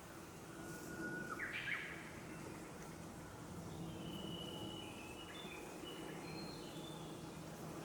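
Wild birds calling. A short call jumps up in pitch in steps about a second in, then a run of brief high whistled notes follows through the middle, over a faint steady low background noise.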